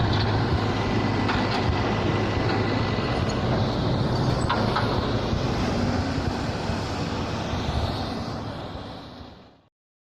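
Diesel engine of heavy machinery running steadily, fading out near the end.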